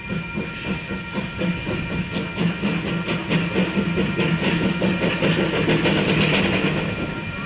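Steam-hauled train running, with a quick, even pulsing of exhaust beats and wheel clatter.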